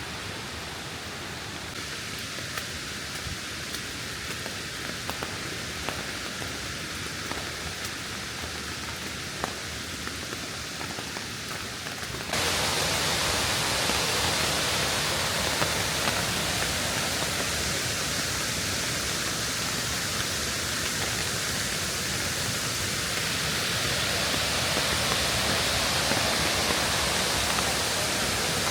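Waterfall rushing steadily, with faint scattered ticks in the first part; about twelve seconds in it jumps suddenly louder and fuller.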